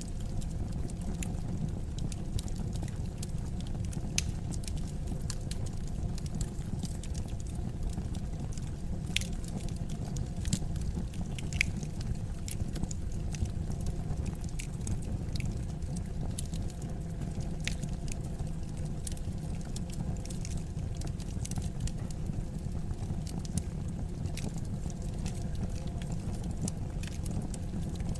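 Wood fire in a fireplace crackling, with irregular sharp pops, a few louder than the rest, over a steady low rumble of burning.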